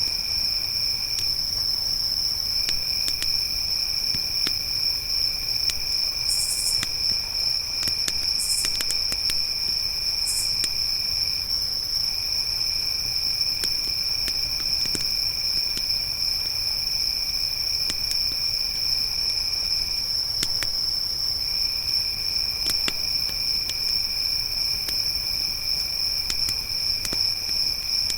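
Crickets chirring in a steady, unbroken high trill, with a second, lower trill that drops out briefly a few times. Sparse faint clicks of a crackling campfire sound under them, and three short higher buzzes come from about six to ten seconds in.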